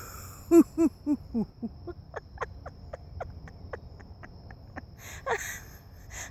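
A woman laughing in quick, short 'ha' bursts, about four a second, falling in pitch, then going on in fainter, quicker laughs.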